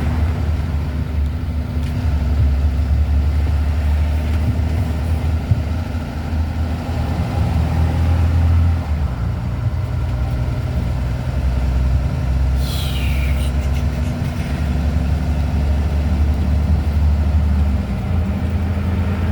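Steady low engine drone and road noise of a vehicle driving at highway speed, heard from inside the cab, with a brief falling hiss about two-thirds of the way through.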